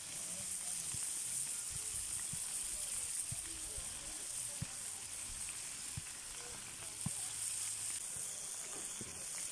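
Seekh kebabs sizzling steadily as they shallow-fry in oil in a frying pan on a portable gas stove, with a few soft knocks.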